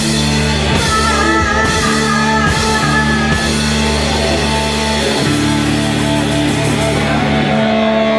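Live rock band playing loud, with electric guitar over sustained chords. A held, wavering high note sounds for a couple of seconds about a second in, and the high cymbal wash fades near the end.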